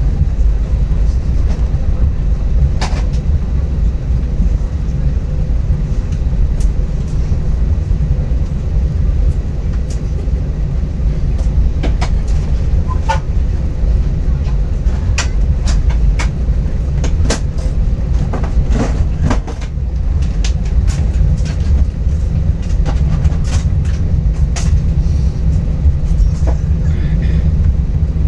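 Inside the cabin of an Airbus A320-232 taxiing: a steady low rumble of the IAE V2500 engines at taxi power and the landing gear rolling over the taxiway. Scattered sharp clicks and light rattles sound throughout, more of them in the second half.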